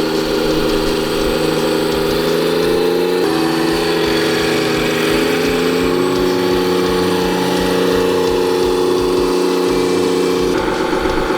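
Mechanical running sound of a 1/14 scale XDRC A40G RC hydraulic articulated truck: a steady hum that steps down in pitch about three seconds in, climbs back over the next few seconds, and changes again near the end.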